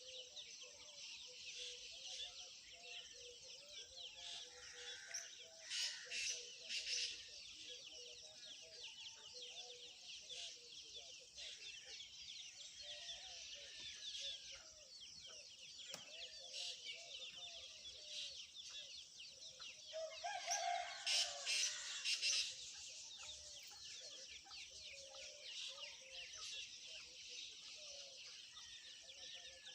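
A colony of bats squeaking and chattering: a dense, continuous mass of short, high-pitched calls, with louder flurries about six seconds in and again around twenty-one seconds in.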